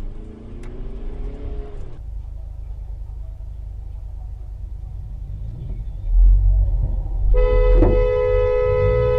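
Low car engine and road rumble. About seven seconds in, a car horn starts and is held as one steady blare.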